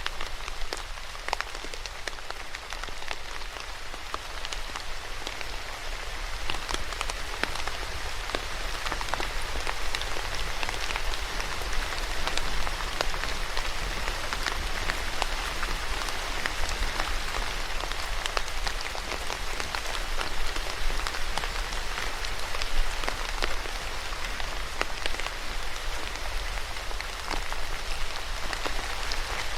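Steady rain falling, with many individual drops striking close to the microphone, over a low steady rumble.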